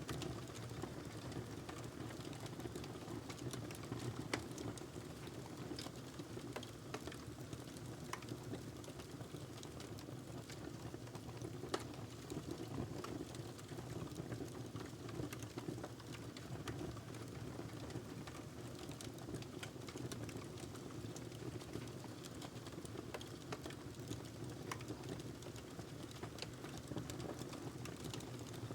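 Wood fire burning in a fireplace: a steady low rush of flames with irregular crackles and sharp pops from the burning logs, a few louder pops standing out.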